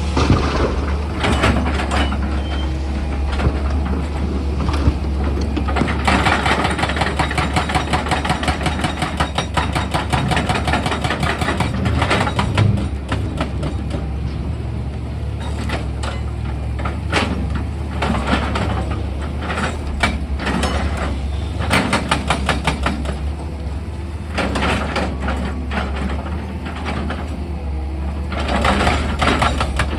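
Heavy excavator's diesel engine running steadily with a constant low hum, under runs of rapid knocking and rattling that are thickest for several seconds in the first half and again near the end.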